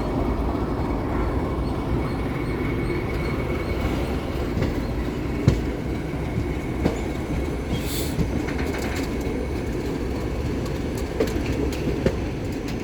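Train wheels running on the rails: a steady rumble with scattered sharp knocks as the wheels pass over rail joints.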